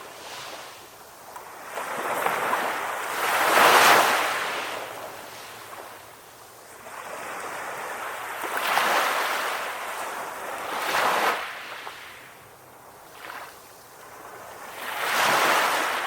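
Sea waves breaking on a shore, one swell after another, each rising to a crash and washing away. The loudest crash comes about four seconds in, with others near the middle and near the end.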